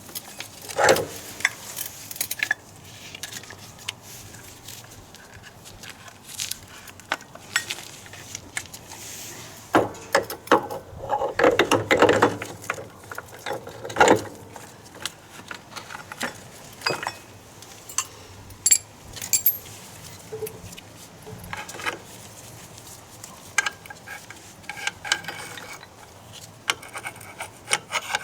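Metal hand tools and parts being handled during scooter repair work: scattered clinks, taps and scraping, with a busier stretch of rattling clatter about ten to fourteen seconds in.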